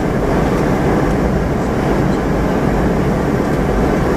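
Steady rush of cabin noise inside a Boeing 717-200 airliner in flight as it descends to land. The sound is an even roar of airflow and engine noise, heaviest in the low and middle range and unchanging.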